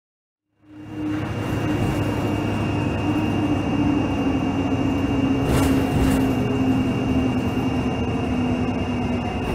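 Aircraft engines: a loud, steady rush with a hum that slowly sinks in pitch, fading in after an abrupt cut about half a second in.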